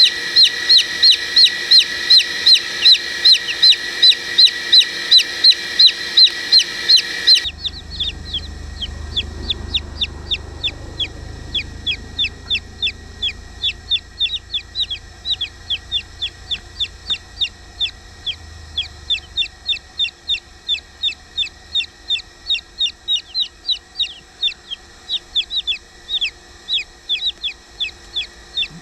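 Domestic chicks peeping steadily, short high downward chirps at about three a second. About seven seconds in, the recording changes abruptly and a low hum sits under the continuing peeps.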